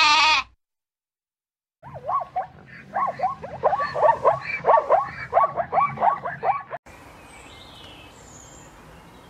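An animal's rapid run of repeated calls, several a second, lasting about five seconds and cutting off suddenly. Faint outdoor background with a few high bird chirps follows.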